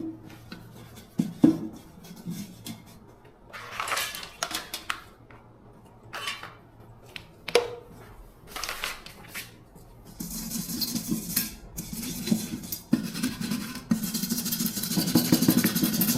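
Clinks and scrapes of metal parts and tools being handled, then from about ten seconds in a small motor starts running with a steady hum that grows louder near the end.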